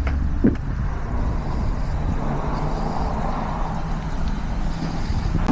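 Steady outdoor road-traffic rumble that swells slightly around the middle, with a short click about half a second in.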